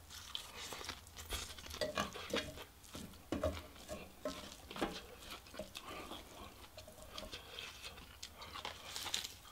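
Close-miked chewing and lip-smacking of a mouthful of fried rice wrapped in dried seaweed, a run of irregular wet smacks and clicks, with a metal spoon scooping in a cast-iron skillet.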